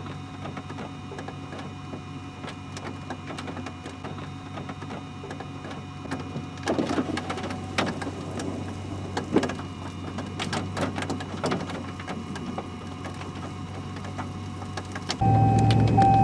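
Steady low hum inside a stopped vehicle, with irregular light taps on the body from about six seconds in. Near the end the hum jumps suddenly much louder, with a steady whine over it.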